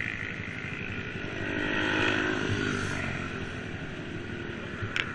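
Motorcycle engine running steadily, growing louder about two seconds in and then easing off.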